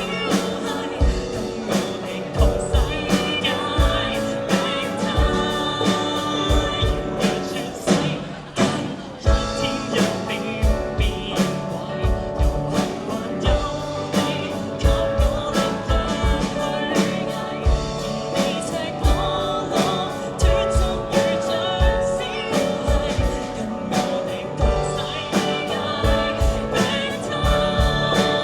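Live pop-rock band playing a song on drum kit, electric guitar and keyboard, with a steady kick-drum beat and a singing voice; the band drops back briefly about eight seconds in.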